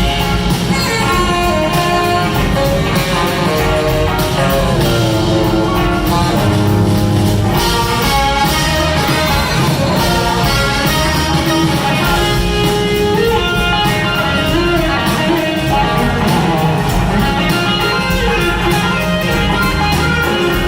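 Live rock band playing, an electric guitar line out front over bass and drums, with no clear vocal in this stretch.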